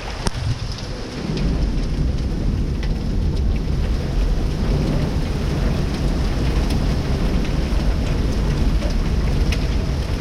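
Heavy rain pouring steadily in a storm, with a continuous low rumble underneath and scattered sharp ticks of drops or stones striking hard surfaces.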